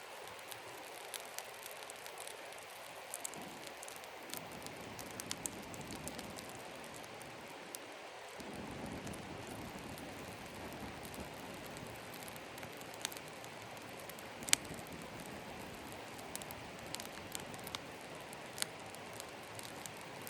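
Small campfire of birch bark and damp wood crackling, with scattered sharp pops over a steady hiss. About eight seconds in, a fuller, lower rushing sound joins, as the fire starts to catch.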